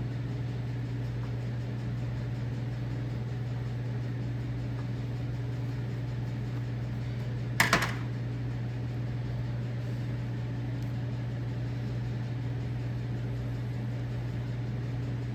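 A steady low hum, with one short sharp click about halfway through.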